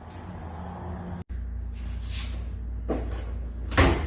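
Repair shop noise: a steady low hum with several short clunks and knocks, the loudest near the end.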